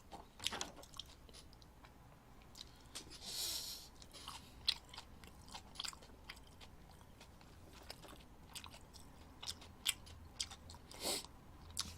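A person chewing a mouthful of egg close to the microphone, with many small wet mouth clicks and smacks and a short hiss of breath about three and a half seconds in.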